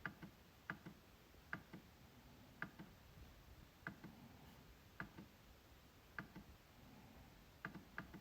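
MacBook trackpad being clicked about once a second at an uneven pace, about nine clicks. Each sharp click is followed by a fainter second click.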